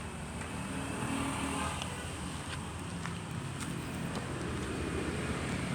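Truck engine running under way, with a steady low rumble and road noise and a few light clicks.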